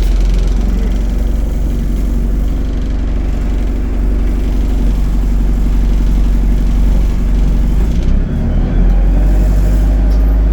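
ADL Enviro 200 bus's diesel engine running steadily, with a brief dip in level about eight seconds in.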